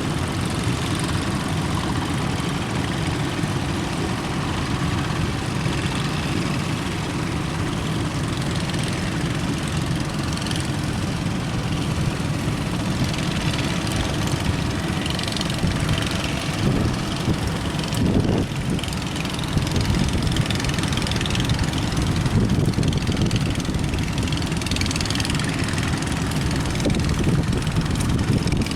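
A boat's engine running steadily with a low rumble, under the rush of wind on the microphone and waves.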